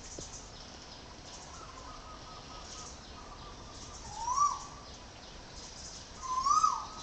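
Bird calling: two loud calls, each rising then falling in pitch, about two seconds apart in the second half, with fainter calls and high chirps around them.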